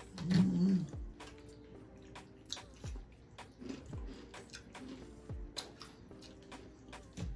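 Eating sounds: wet mouth clicks and chewing with scattered sharp clicks, over faint background music with held notes. A short closed-mouth hum about half a second in is the loudest sound.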